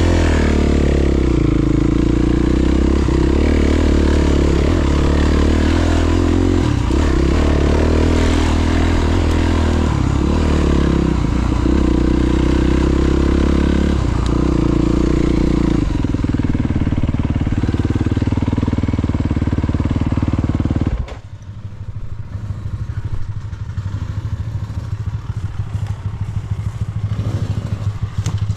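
Honda CRF300RX single-cylinder four-stroke engine running while riding off-road, the revs rising and falling with the throttle. About 21 seconds in it drops to a quieter, lower-revving run, near idle.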